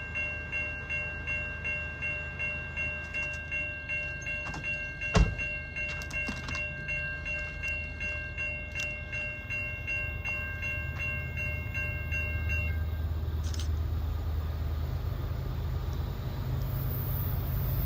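A bell ringing rapidly and evenly, about twice a second, over the low rumble of a Norfolk Southern freight train's diesel locomotives. The bell stops about thirteen seconds in, and there is a single sharp bang about five seconds in.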